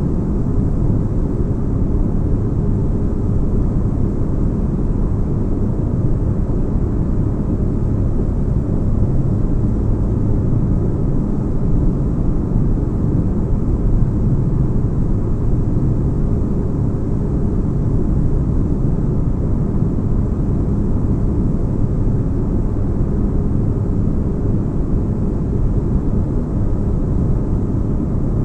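Steady deep-bass rumble of a sci-fi spaceship-interior ambience, with a faint steady hum over it.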